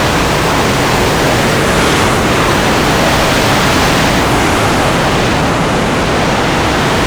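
Waterfall rushing: steady, loud falling water.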